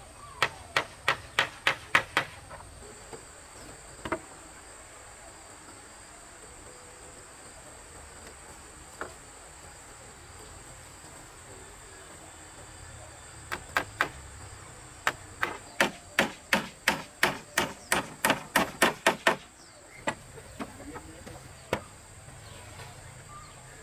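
Quick runs of hammer blows on wood, about four a second: a short run at the start and a longer one of about six seconds past the middle, with a few single blows between. A steady high-pitched insect drone sounds underneath.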